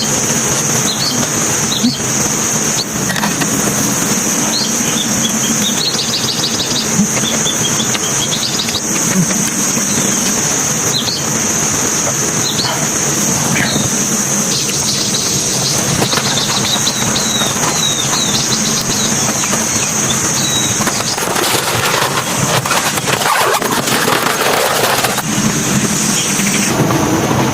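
Summer forest ambience: birds chirping in short calls over a steady, high-pitched insect buzz, with a low steady hum underneath. A rush of noise rises for a few seconds about three-quarters of the way through.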